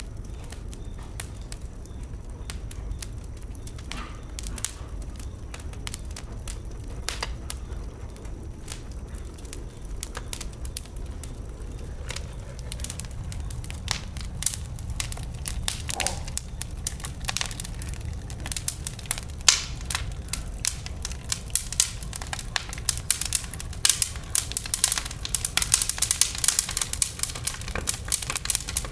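Wood bonfire burning, crackling and popping with frequent sharp snaps that grow denser and louder in the last few seconds.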